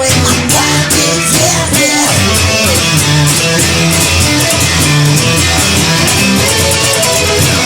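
Instrumental rock music: a guitar over bass and drums, no singing.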